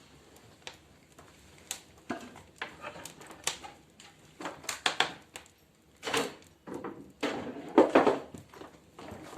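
Irregular knocks, clicks and clattering of firewood in a fireplace stove, with the loudest clatter near the end.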